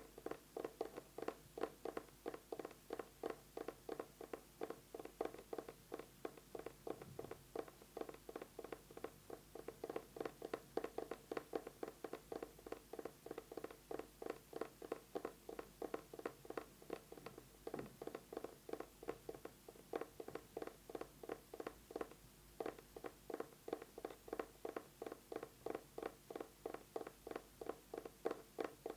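Fast tapping on an eyeglasses case: quick, even taps, several a second, with a few brief pauses.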